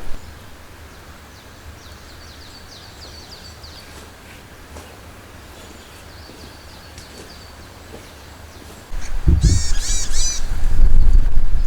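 Small forest birds chirping in short, quickly repeated falling notes over a quiet background. About nine seconds in, a louder bird calls several times in quick succession, and a loud low rumble sets in with it.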